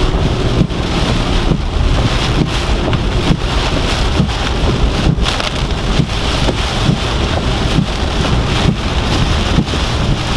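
Heavy hurricane rain and strong wind lashing a moving car, loud and continuous, with wind buffeting the microphone.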